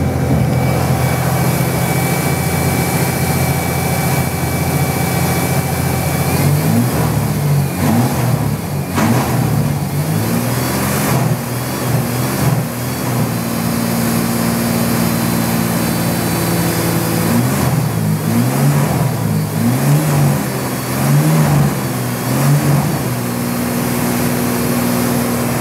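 Chevrolet Opala's six-cylinder engine running: steady idle at first, then revved up and let back down several times, with steady stretches between the blips.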